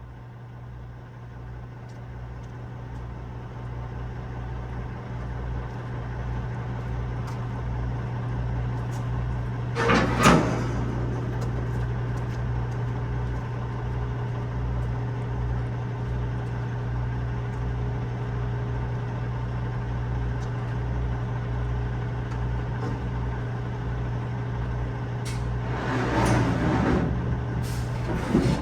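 Semi-truck's diesel engine idling steadily, getting louder over the first few seconds. A short hiss of air comes about ten seconds in, and a few more noisy bursts come near the end.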